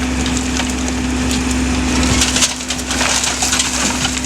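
A heavy construction machine's engine running steadily while wooden debris cracks, snaps and splinters under it, with the cracking densest in the second half.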